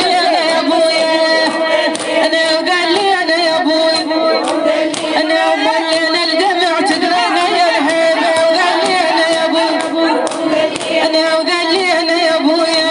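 Wordless, ornamented singing over a steady held drone, the mournful opening of a Shia lament chant.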